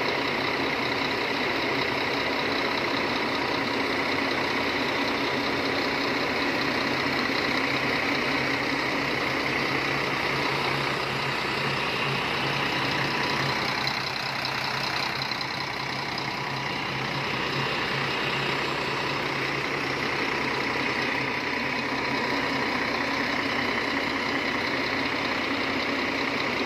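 Scania K380 coach's diesel engine idling steadily.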